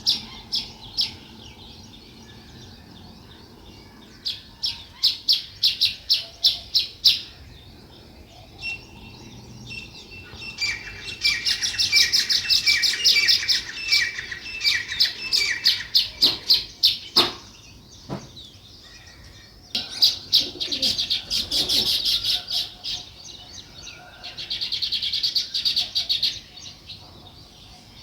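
House sparrows chirping in bouts of quick, repeated chirps, with the densest chattering around the middle and quieter gaps between bouts.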